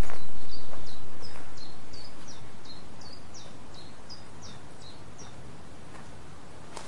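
A bird calling a run of about fifteen short, high chirps, each sliding down in pitch, about three a second, stopping about five seconds in, over a steady outdoor background hiss.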